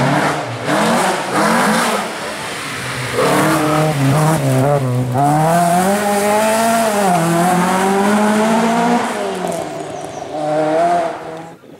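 Rally car engine at high revs on a stage, its pitch climbing and dropping several times as it shifts gear and lifts off, loud as it passes and then pulling away. The sound cuts off suddenly near the end.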